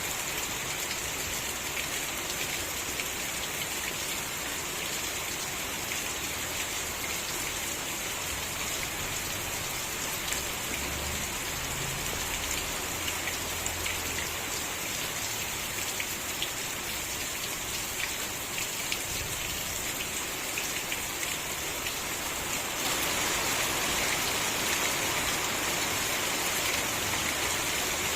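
Steady rain falling, with fine drop ticks heard through it. It grows a little louder for the last few seconds.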